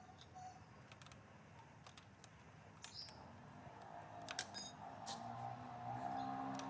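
Light clicks and taps of small metal parts being handled, with a sharp ringing metallic clink about four and a half seconds in. A low steady hum comes in about five seconds in.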